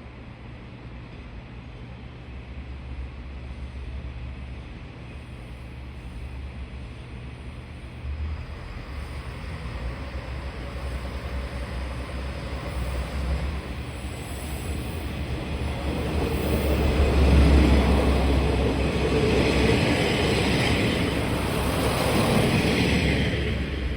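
Train running, its rumble building steadily to a peak about two-thirds of the way through, then easing near the end.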